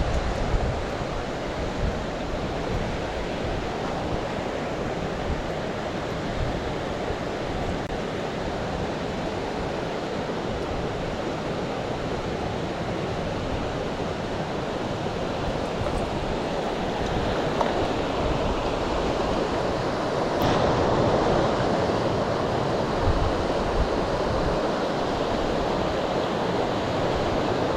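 Steady rush of a mountain stream's flowing water, a little louder in the second half.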